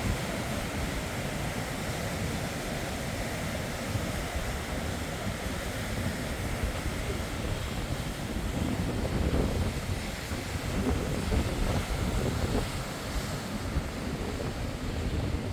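Strong sea waves surging in, a continuous rushing wash that swells and ebbs, with wind buffeting the microphone as a low rumble.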